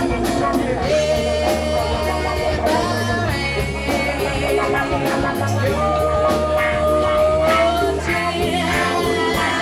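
Live rock band playing over a steady bass line and drum beat, with a long held melody note starting about a second in and another from about six seconds, each rising slightly at its end.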